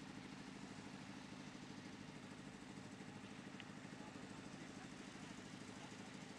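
Faint, steady, engine-like low hum that runs evenly without change.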